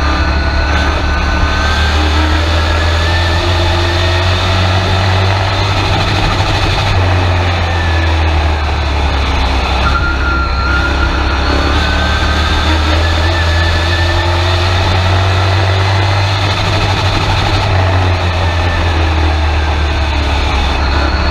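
Race truck's engine heard from inside the cab under racing load, running loud and steady with a deep drone and its pitch rising and falling repeatedly as the revs climb and drop.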